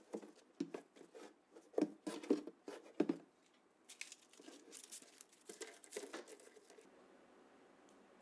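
Hand work on small model parts: a run of sharp clicks and taps for about three seconds, then a softer stretch of scraping that dies away.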